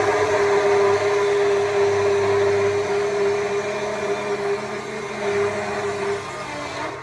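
Stihl MSA 200 C battery chainsaw running and cutting wood: a steady electric-motor whine over the rasp of the chain. Near the end the pitch dips and it eases off.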